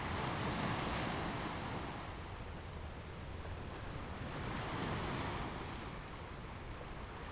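Ocean surf: waves breaking and washing, swelling twice, about a second in and again around five seconds in.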